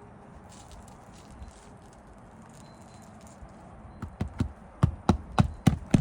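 Hammer driving roofing nails into a 3-tab asphalt shingle: a quick run of about seven sharp strikes, starting about four seconds in.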